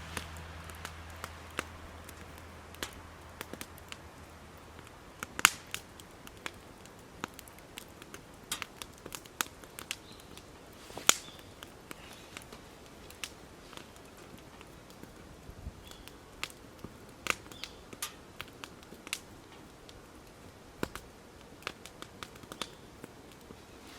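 Wood campfire crackling: irregular sharp pops and snaps, a few louder ones, over a faint hiss.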